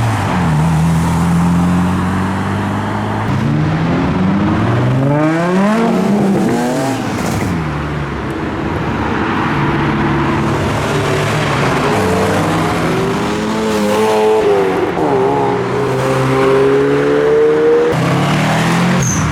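Modified car engines running and revving as cars pull away, with a sharp rise in revs about five seconds in and a slower climb in pitch toward the end.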